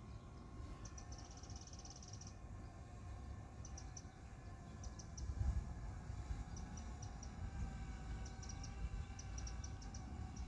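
Small bird chirping in short, high, quick bursts over a low, steady rumble of outdoor ambience.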